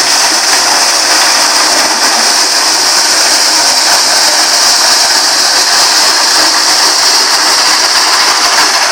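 Tractor-driven Surjeet maize sheller running, a loud, steady mechanical noise with a hiss that does not let up.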